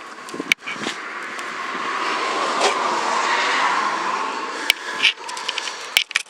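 A vehicle passing by, its noise swelling to a peak about three seconds in and then fading away. A few sharp clicks come near the start and toward the end.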